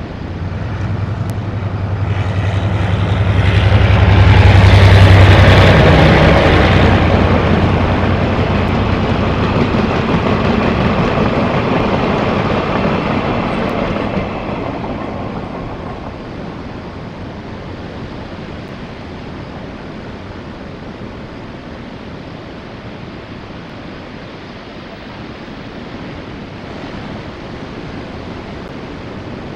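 Taiwan Railway freight train passing through a station. The locomotive's low steady hum builds to its loudest about five seconds in, the wagons rumble past until about fourteen seconds in, and the sound then fades into a steady background of wind and surf.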